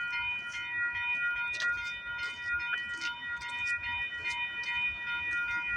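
Railway level-crossing warning bells ringing steadily as a freight train approaches, a chord of high ringing tones, with scattered sharp clicks.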